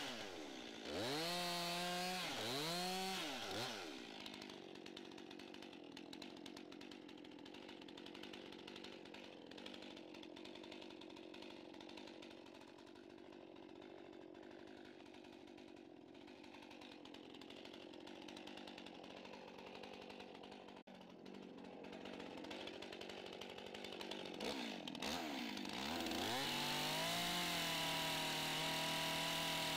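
Two-stroke chainsaw running at high revs, its pitch dipping and recovering several times in the first few seconds. It runs quieter through most of the middle, then revs back up to a loud, steady pitch near the end.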